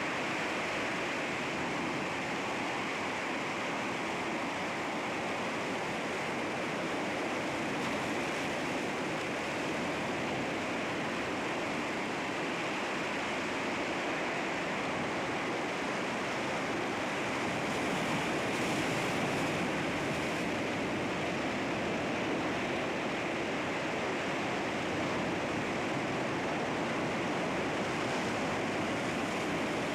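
Sea waves washing and breaking against rocks: a steady rush of surf that swells slightly about two-thirds of the way through.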